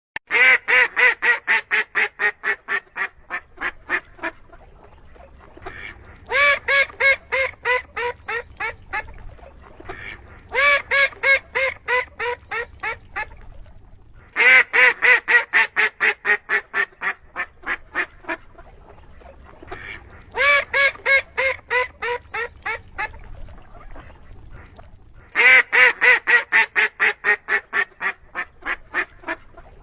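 Duck quacking in six runs of rapid quacks, about four a second. Each run starts loud and fades away over three to four seconds.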